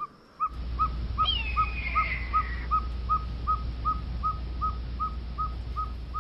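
An owl giving a steady series of short whistled toots, about two and a half a second, with one longer falling whistle over them about a second in.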